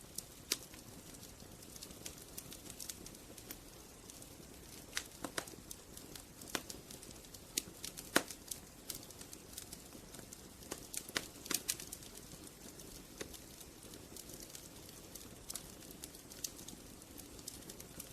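Wood fire burning, with irregular sharp pops and snaps of the firewood over a steady low hiss of the flames; the loudest snap comes about eight seconds in.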